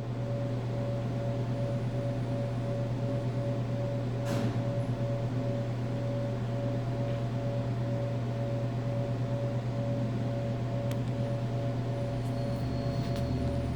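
A steady mechanical hum: a constant low drone with a higher tone pulsing evenly above it, and one short click about four seconds in.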